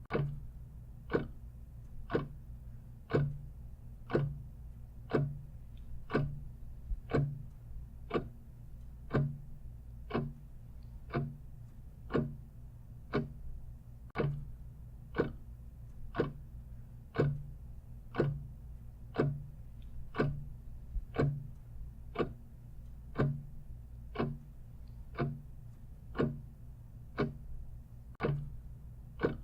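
A clock ticking steadily, about two ticks a second with alternating stronger and weaker beats in a tick-tock pattern, over a faint low hum.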